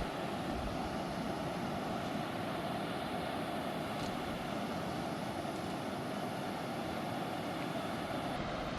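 Steady rushing of a fast-flowing river, an even unbroken roar.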